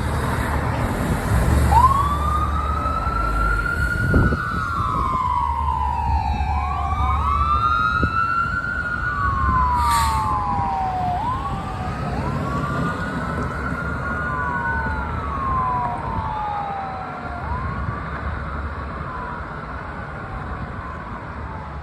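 Emergency vehicle sirens on the wail setting, two or more overlapping out of step, each rising quickly and falling slowly, over a low engine rumble. They grow fainter near the end.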